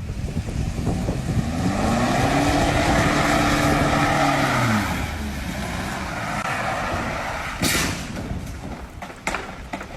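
Road vehicle noise with a droning engine-like tone that rises, holds and falls away, then two sharp knocks near the end.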